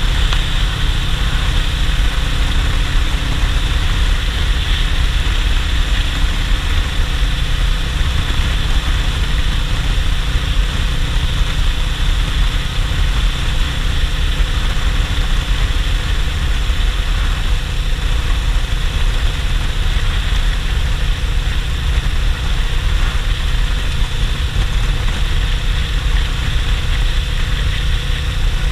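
Suzuki GS500E's air-cooled parallel-twin engine running at a steady road speed, heard from the rider's position with wind rushing over the microphone. The engine note holds even, with no revving up or down.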